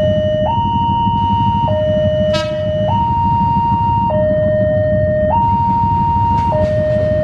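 Railway level-crossing warning alarm sounding a steady two-tone signal, alternating between a higher and a lower note about every 1.2 s, which warns that a train is approaching. A constant low rumble runs underneath, and a brief sharp sound comes about two seconds in.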